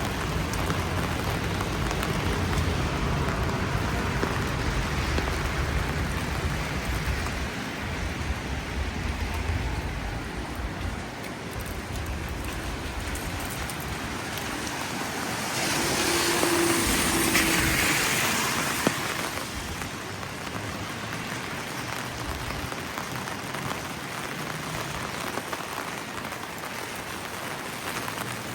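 Steady rain falling, with a car passing on the wet road about halfway through, its tyre hiss swelling and fading over about three seconds.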